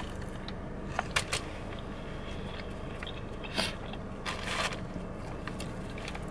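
Biting into and chewing a chalupa's fried shell: a few short crunches about a second in and again around three and a half to four and a half seconds, over a steady low hum.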